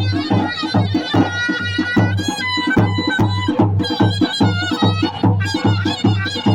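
Live Kurdish folk dance music: a large drum beating a steady rhythm of about three strokes a second under a shrill, reedy wind instrument playing a wavering melody.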